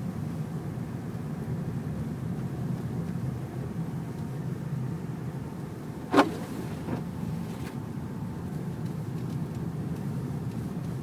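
Steady low rumble of a car driving on a snowy road, heard from inside the cabin. A single sharp knock stands out about six seconds in, with a couple of fainter clicks after it.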